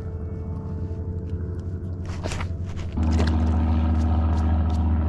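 Steady low motor hum that gets louder about three seconds in, with a few short clicks and scrapes of handling around two seconds in.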